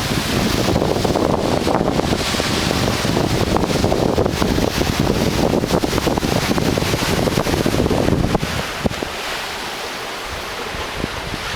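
Heavy surf from a just-passed typhoon, waves crashing and churning, with wind buffeting the microphone. The surge is strongest for the first eight seconds or so, then eases.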